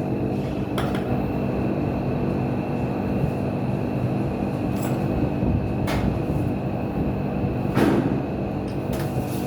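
Steady low machine hum with a few sharp knocks or clicks breaking in, the loudest about eight seconds in.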